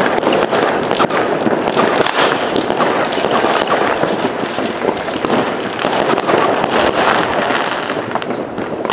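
Many fireworks and firecrackers going off at once all over a town, a dense, continuous crackling and popping with sharp bangs throughout.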